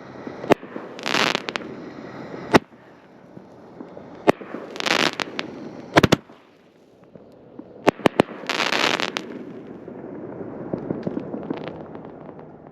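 Alien Fireworks Alter Ego firework cake going off: sharp bangs at irregular intervals, three loud hissing bursts of about half a second each, then a softer stretch of crackle with scattered small pops near the end.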